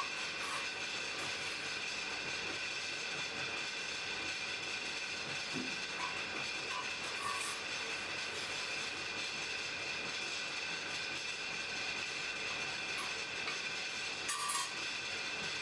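Blacksmith's forge fire burning with a steady rushing noise, with a few brief crackles, the loudest about 14 seconds in.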